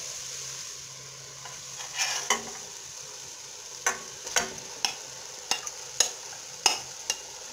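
Onions, peppers and tomatoes with paste sizzling steadily in oil in a steel pot as coarse bulgur is tipped in from a glass bowl. About nine sharp clinks and knocks from about two seconds in, as the glass bowl taps against the pot's rim.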